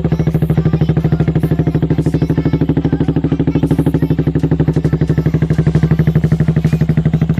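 Yamaha Vixion's single-cylinder four-stroke engine idling steadily through an aftermarket racing exhaust, a loud, even rapid putter.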